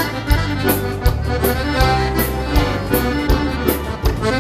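Instrumental passage of Brazilian bandinha dance music: accordion leading over a steady beat, between sung lines.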